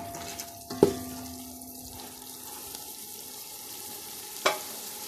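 Ghee melting and sizzling in a steel pot over cooked onion and tomato, a steady frying hiss. A metal spoon knocks against the pot about a second in, leaving a short ring, and knocks once more near the end.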